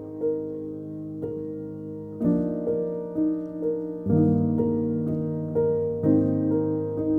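Calm background piano music: single notes struck roughly every half second over held chords, with a new chord about every two seconds.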